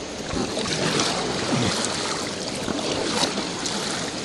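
Whitewater rushing and splashing around a raft as the crew paddles forward into a rapid, the water noise swelling about half a second in.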